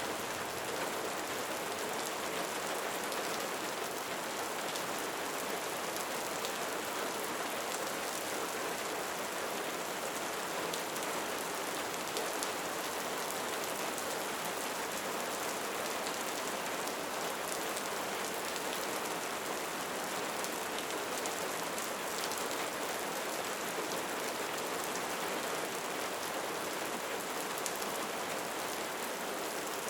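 Steady rain falling in a cenote, with many individual drops ticking through an even hiss.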